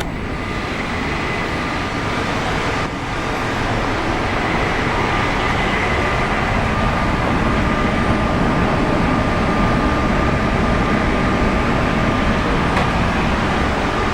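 Running noise of an E5 series Shinkansen heard inside the passenger cabin: a steady rumble and hiss with a faint high whine, growing louder over the first few seconds and then holding.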